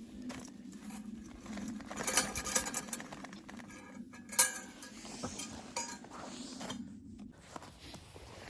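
Clinks and knocks of cookware and utensils being handled, with a cluster of clatter about two seconds in and one sharp knock about four and a half seconds in, over a steady low hum that stops near the end.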